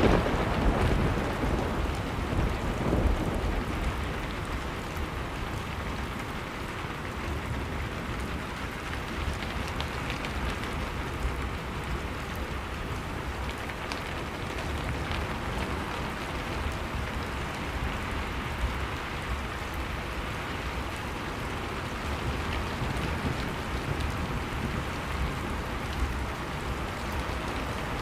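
Blizzard wind rushing steadily, mixed with wood fire crackling in a fireplace.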